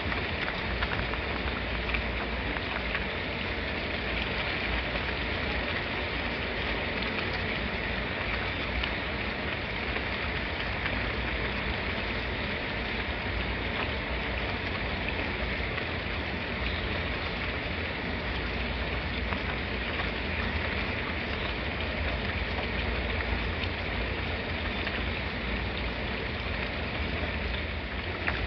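Steady rain falling, an even hiss of drops with fine scattered patter on a surface.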